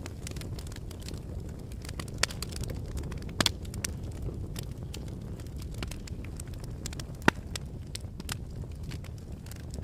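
Volcanic eruption or lava flow: a steady low rumble with irregular sharp cracks and pops, the loudest a little over three seconds in and again about seven seconds in.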